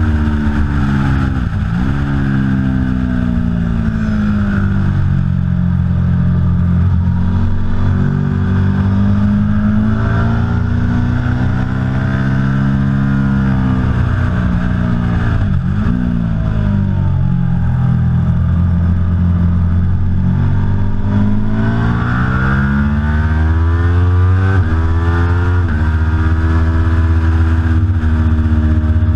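Aprilia Tuono V4 Factory's V4 engine under hard use on track, its pitch climbing through the gears and dropping sharply on downshifts under braking. There is a sharp drop about a second and a half in, another around the middle, and a cluster of quick downshifts near the end.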